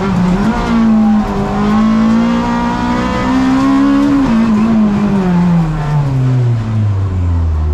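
Honda Civic Type R race car's four-cylinder engine heard from inside the stripped cabin, held at high revs with a brief dip just after the start, then revs falling steadily from about four seconds in as the car slows.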